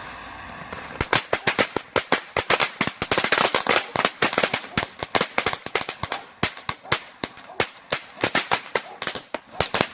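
Cuckoo Fountain ground-fountain firework going off, with a dense run of sharp crackling pops, several a second, starting about a second in.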